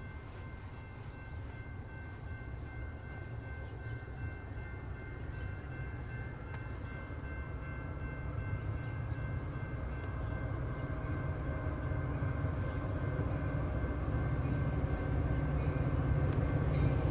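Metra F40PHM-3 diesel locomotive and its commuter train approaching: a steady low rumble that grows louder throughout, with a few faint steady high tones above it.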